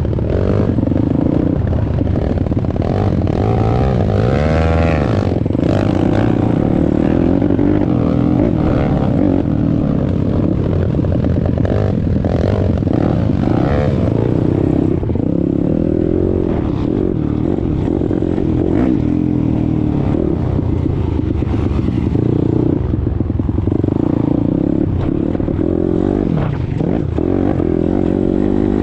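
YCF 190 Daytona Bigy pit bike's single-cylinder four-stroke engine running while being ridden, its pitch repeatedly rising and falling as the throttle is opened and closed.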